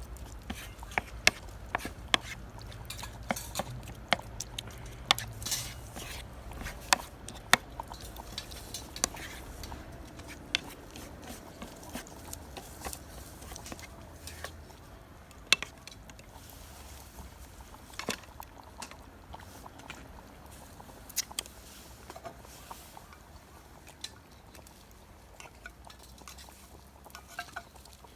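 Utensils clinking and knocking against pots and dishes during food preparation: sharp irregular taps, frequent at first and sparser later, over a faint low rumble.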